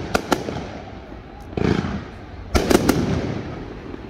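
Aerial fireworks bursting overhead: two sharp cracks just after the start, a duller boom about one and a half seconds in, then a quick cluster of cracks near three seconds.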